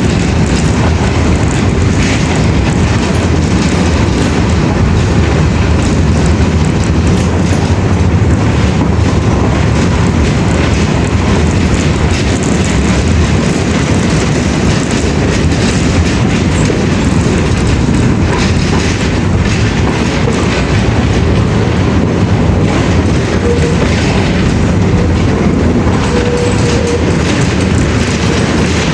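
Loud, steady rumbling noise, strongest in the low range, without a break or a clear rhythm.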